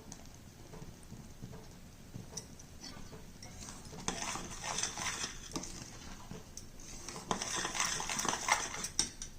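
A spoon scraping and clinking against a pan as jaggery is stirred over heat to melt it, in two bouts: about four seconds in and again from about seven seconds, with light knocks in between.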